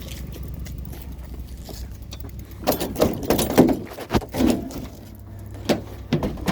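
Low, steady vehicle engine and road drone heard from inside the cab. About two and a half seconds in, a run of clanks and rattles lasts about two seconds, and a few single knocks come near the end.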